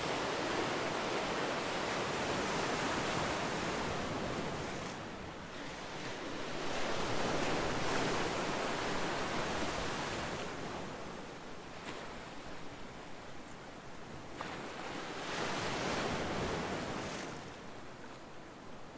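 Ocean surf: waves breaking and washing in, the rushing swelling and fading in slow surges several seconds apart.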